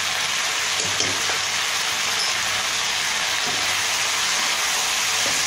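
Chopped vegetables sizzling steadily as they fry in a non-stick wok, being stirred with a wooden spatula.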